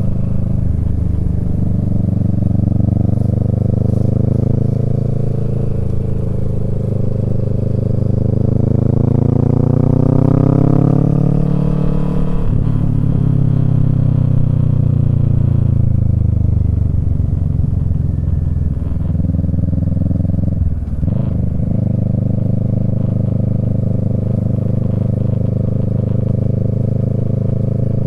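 Kawasaki Z650's parallel-twin engine through a Yoshimura Alpha exhaust, its pitch rising steadily for about ten seconds under acceleration, then falling as it eases off. There is a brief drop about 21 seconds in, and then it runs at a steady pitch.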